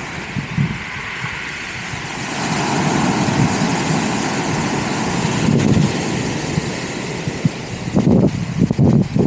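Sea waves breaking and washing up the beach, swelling about two and a half seconds in, with wind buffeting the microphone in gusts near the end.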